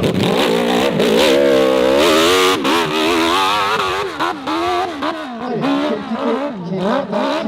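Off-road motorcycle engine revving hard and unevenly, its pitch rising and falling every second or so as the throttle is worked.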